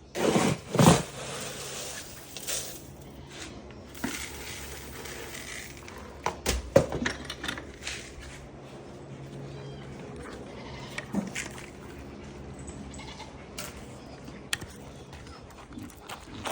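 Goats bleating, with loud knocks and clatter from feed being scooped and poured, loudest in the first second and again about six and a half seconds in.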